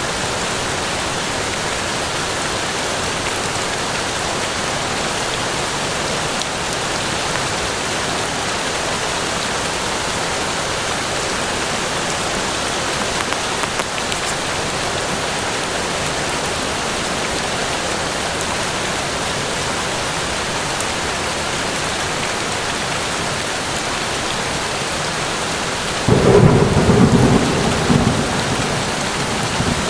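Steady, even rain falling on forest foliage, with a sudden low thunderclap near the end that rumbles for two or three seconds before fading back into the rain.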